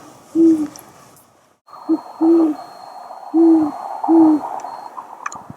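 Great horned owl hooting: about five deep, low hoots in its typical uneven rhythm, one short hoot running into a longer one, over a steady background hiss. The sound cuts out briefly about a second and a half in.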